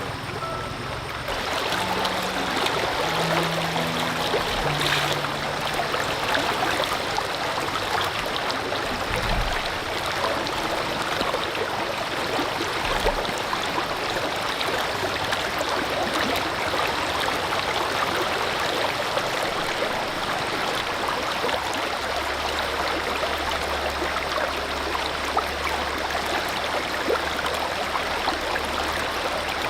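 Stream water running and splashing over rocks, a steady rush with fine crackle.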